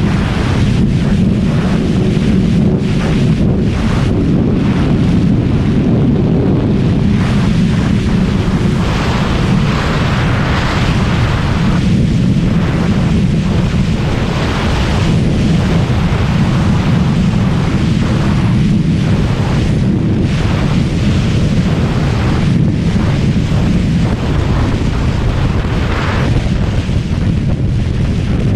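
Kawasaki ZX-636R's 636 cc inline-four engine running steadily under way, under loud wind rush on the microphone from riding speed.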